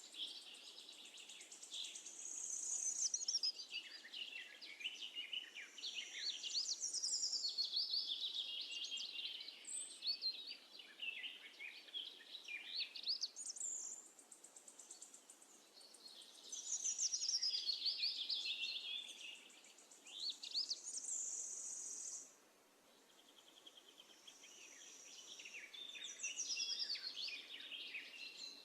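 Sparrows chirping and twittering, many calls and quick falling trills overlapping, with a brief lull about three-quarters of the way through.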